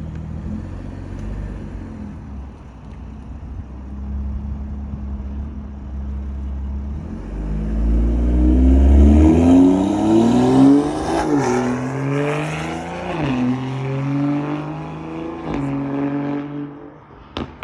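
BMW M340i's B58 turbocharged inline-six running through a newly fitted Dinan free-flow dual-valve exhaust. It idles with a steady drone, then from about seven seconds in it is revved several times, the pitch climbing and dropping with each blip.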